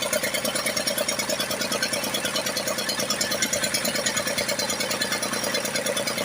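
Lister-type stationary diesel engine running steadily after being hand-cranked, with an even, rapid beat of several firing pulses a second.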